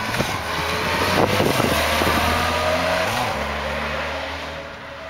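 Yamaha FJR1300 inline-four motorcycle engine running as the bike is ridden around, getting louder, then fading as it moves away, with a short rise in engine pitch about three seconds in.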